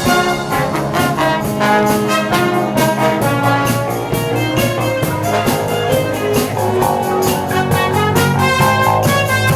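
A wind band playing an upbeat pop tune live, with trumpets and trombones carrying the melody over a steady drum beat.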